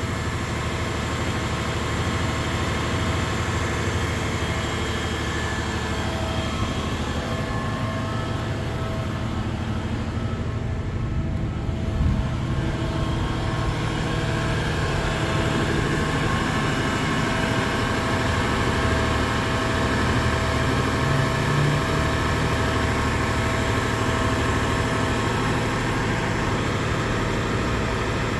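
A crane truck's engine runs steadily under load, a continuous drone with several steady tones and a single light knock about halfway through.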